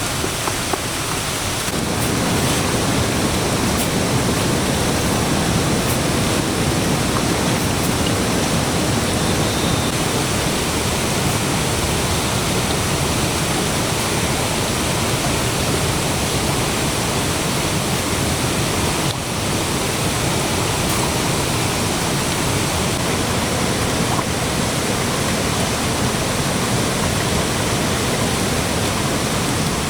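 Steady, continuous rush of water with no break, loud and even throughout.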